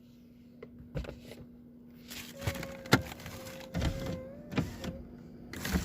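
A person getting out of a car: a few clicks and knocks of the door and handling, with rustling, and a thin steady tone for a couple of seconds in the middle.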